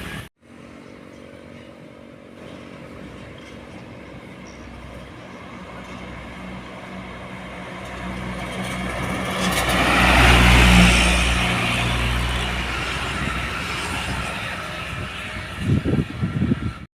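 A truck driving past on a road: its engine hum and tyre noise grow louder, peak about ten seconds in as it passes, then fade as it moves away.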